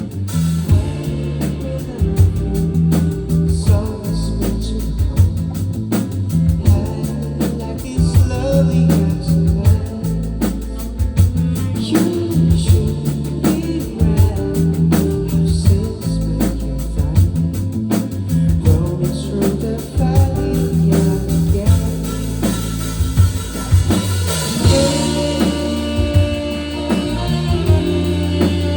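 Rock band music with a drum kit keeping a steady beat under bass and electric guitar, with some singing.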